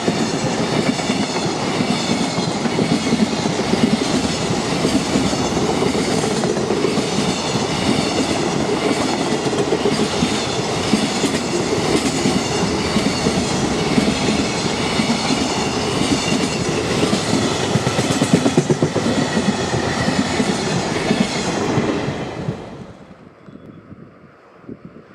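Freight train of container wagons passing at speed, wheels clattering over the rail joints. The sound drops away abruptly about 22 seconds in.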